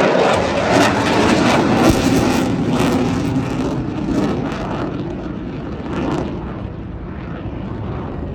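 Jet noise from an RAF Eurofighter Typhoon's twin EJ200 turbofans as the fighter passes: a loud, rough roar, heaviest in the first few seconds, then slowly fading.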